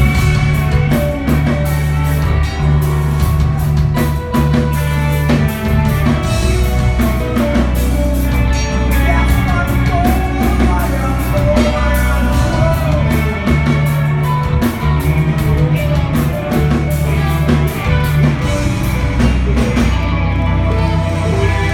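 Live rock band playing loud and steady, with distorted guitars, heavy bass, a driving drum kit and some singing.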